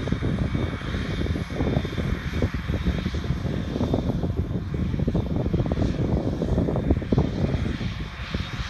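Heavy diesel farm machinery running steadily at a grass-silage harvest, a dense and constant engine noise.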